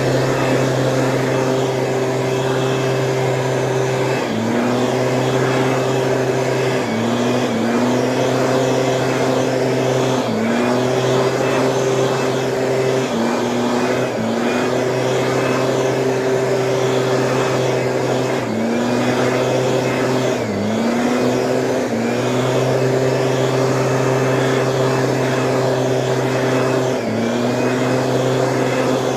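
Small two-stroke Stihl engine of a weed-spraying machine running at high speed. Its pitch briefly dips and climbs back every few seconds as the throttle is eased and reopened.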